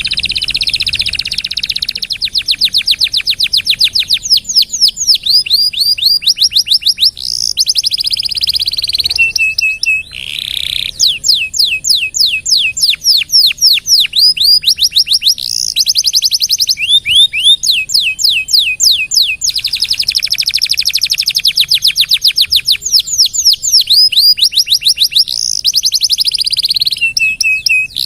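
Domestic canary singing a long, continuous song of fast trills and buzzy rolls, with only a short break about ten seconds in.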